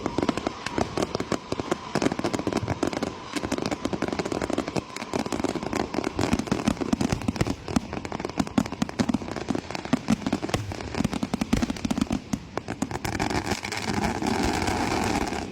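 A fireworks barrage: rapid, dense bangs and crackles, many a second, that settle into a steadier crackle near the end.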